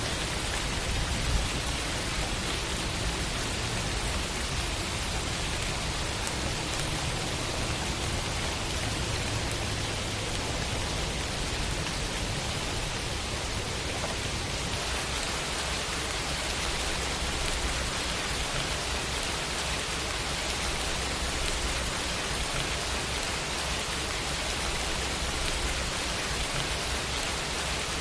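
Steady rain falling: an even, unbroken hiss with some low rumble underneath, the low part changing slightly about halfway through.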